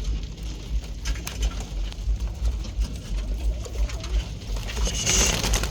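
Roller pigeons cooing in a loft, over a steady low rumble and scattered sharp clicks.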